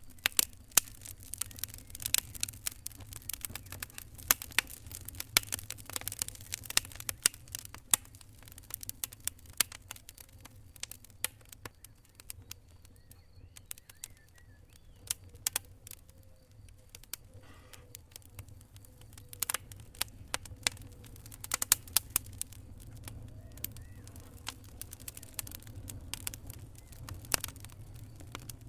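Wood fire crackling in a fireplace: irregular sharp pops and snaps, some much louder than others, over a steady low rumble of the flames.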